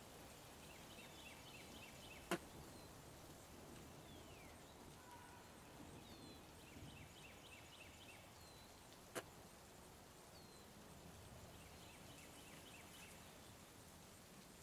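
Faint bird song: a short rapid trill repeated about every five to six seconds, with a few single high chirps between. Two sharp clicks about seven seconds apart are the loudest sounds.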